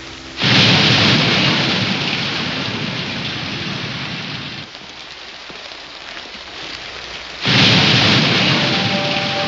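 Thunderstorm: steady rain with two loud claps of thunder, one about half a second in and another near the end, each starting suddenly and fading slowly.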